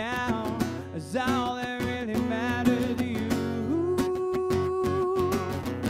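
Live music: an acoustic guitar strummed in a steady rhythm under a bending melodic line, with one long note held from about four seconds in.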